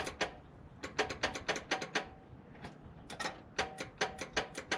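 Rapid sharp metallic clicking in several bursts, about seven clicks a second, like a ratchet or similar small mechanism being worked.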